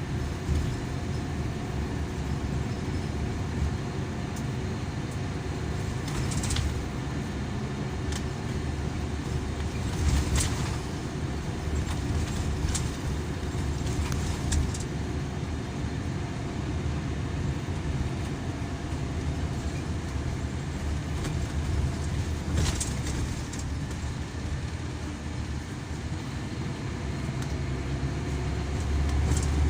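Scania K340EB coach with an Irizar PB body heard from inside the passenger cabin on the move: a steady low engine and road drone, with a few short sharp rattles from the bodywork.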